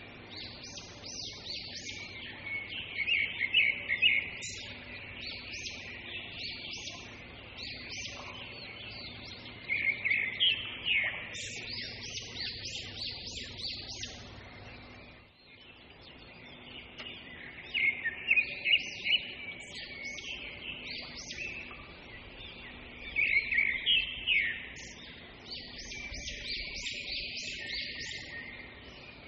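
Small birds chirping in repeated clusters of quick, high notes, with quieter stretches between the clusters.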